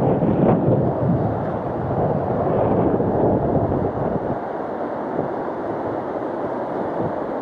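Sea surf washing against the rocks, with wind buffeting the microphone; louder over the first few seconds, then easing.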